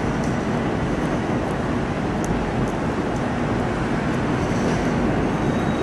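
Long Island Rail Road commuter train approaching along the tracks, a steady low running noise.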